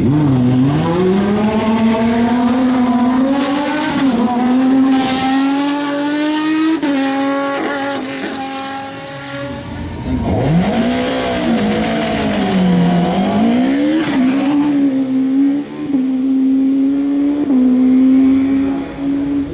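Hill climb race car engines at full throttle. A car accelerates away through quick upshifts and fades into the distance. Then another revs up and down and pulls away at high revs.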